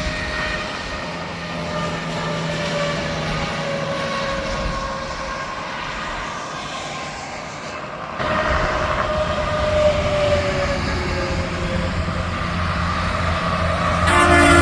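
Trucks passing on an interstate highway: engine and tyre whine sliding down in pitch as each one goes by, with a louder one passing about eight seconds in. A horn starts to blow right at the end.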